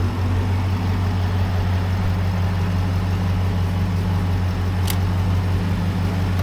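An engine idling steadily with a low, even hum, and a single short click about five seconds in.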